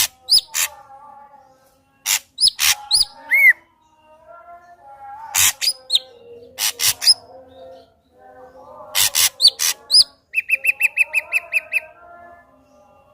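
Ashy drongo singing a varied song: groups of sharp, loud clicks and high downslurred whistles, with softer lower warbling notes in between. A little after ten seconds in comes a quick run of about a dozen short, even notes.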